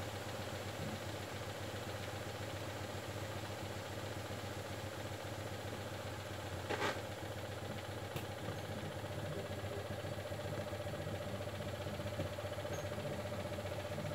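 Citroën Dyane's air-cooled flat-twin engine idling steadily, with a single sharp knock about halfway through and a smaller click a second later.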